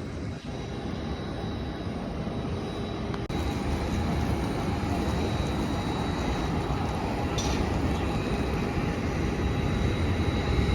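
Airliner jet engines running, a steady low rumble with a thin high whine that gets louder about three seconds in.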